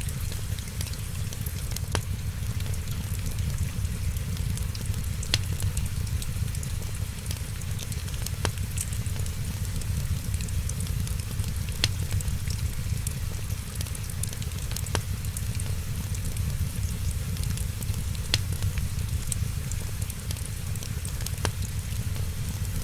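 Wood fire crackling: a steady low rumble and hiss with sharp pops and snaps scattered throughout, a few louder ones every few seconds.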